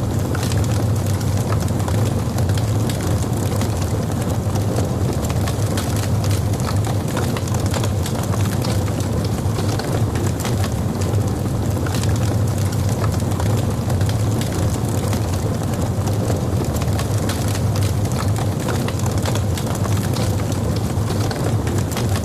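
Logs burning in a fireplace: a dense scatter of small crackles and pops over a steady low rumble of the fire.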